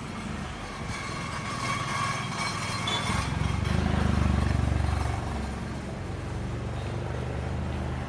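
A motor vehicle passing close by, its engine rumble growing to a peak about four seconds in and then fading away.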